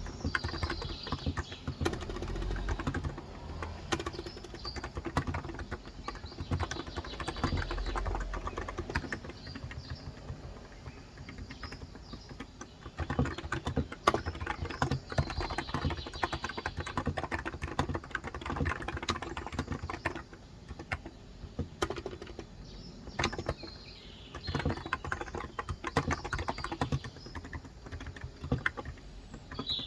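Typing on a Cox Endeavor electrostatic capacitive (Topre-style) 35 g tenkeyless keyboard: rapid keystrokes in bursts with short pauses. Birds chirp faintly in the background, with a clearer call right at the end.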